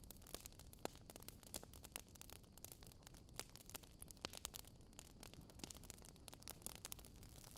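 Fire crackling faintly: small pops and snaps at irregular intervals over a low hiss.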